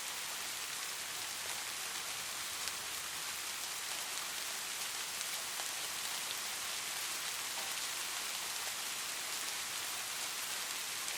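Steady light rain, an even hiss with scattered small drop ticks.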